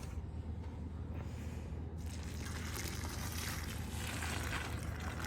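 Water pouring onto loose soil and peat moss around a newly planted blueberry bush, a steady splashing hiss that grows fuller about two seconds in, over a steady low hum.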